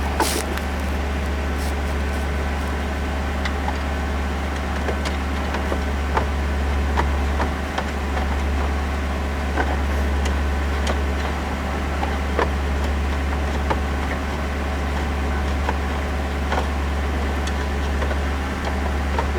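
Ford Crown Victoria Police Interceptor's 4.6-litre V8 idling steadily, heard from inside the cabin as a low hum. Scattered light clicks and knocks come as a plastic trim panel is fitted back into place.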